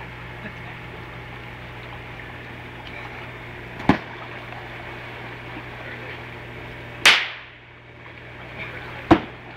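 Three sharp smacks of foam pool noodles striking, about 4 s in, about 7 s in and just after 9 s; the middle one is the loudest and trails off over about a second. A steady low hum runs underneath.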